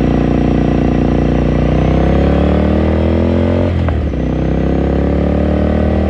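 2018 Ducati Scrambler Sixty2's air-cooled L-twin engine and exhaust under acceleration, the revs climbing steadily, dropping briefly at a gear change a little past halfway, then climbing again in the next gear.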